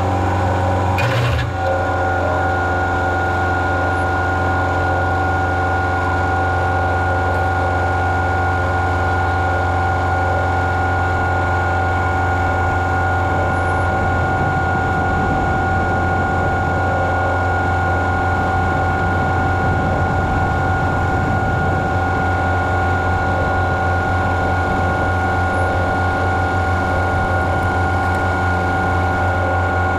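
Engine of farm machinery running at a steady speed, with a constant whine over the low drone. One sharp click comes about a second in.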